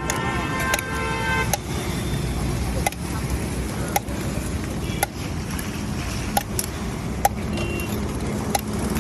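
Street traffic noise running steadily, with sharp clicks about once a second and a pitched, horn-like tone in the first second and a half.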